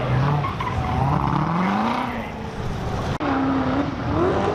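Car engine revving, its pitch rising for about a second. A sudden break about three seconds in, after which an engine runs at a steadier pitch.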